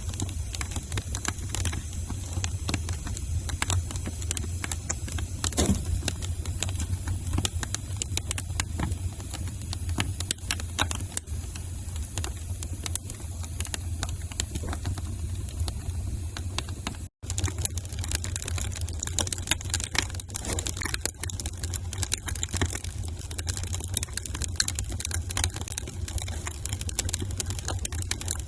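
Wood fire in a fireplace crackling, with irregular sharp pops and snaps over a steady low rumble of the flames. The sound cuts out for an instant about two-thirds of the way through.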